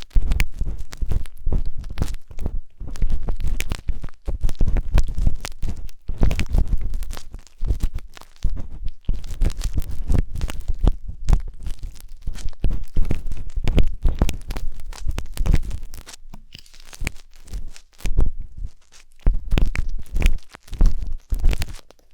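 Wooden skewer scraping and rubbing inside a 3Dio binaural microphone's silicone ear, close up: a continuous run of scratchy strokes, crackles and muffled rumbling, thinning out for a few seconds in the latter part before picking up again.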